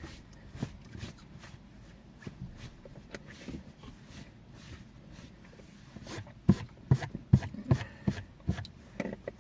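Eating sounds close to the microphone: chewing with scattered mouth clicks and smacks. Over the last third, a run of louder low knocks and thumps comes about every half second.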